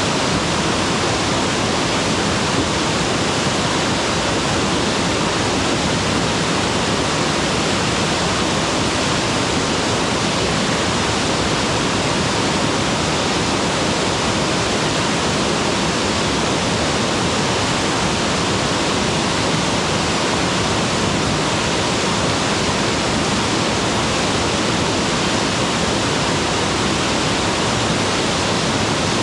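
Mountain waterfall: a steady, unbroken rush of falling water with no change in level.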